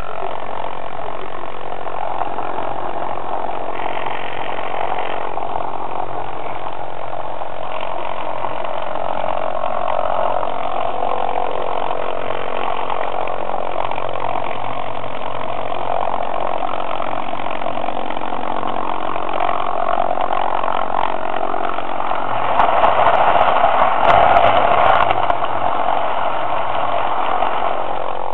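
Hornby model train's small electric motor running steadily as the locomotive travels along the track. The sound gets louder for a few seconds near the end, with a few sharp clicks.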